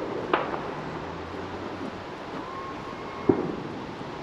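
Distant fireworks going off: two sharp bangs about three seconds apart, the second one louder, over a steady outdoor rumble.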